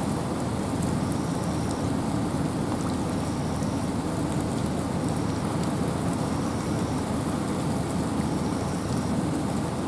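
Steady rain and wind in a forest: an even, low rushing noise with scattered ticks of drops, and a faint short high note repeating about every second and a half.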